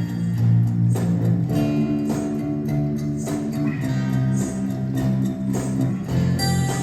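Guitar music: plucked notes and chords ringing on over a steady low line, the chord changing a few times.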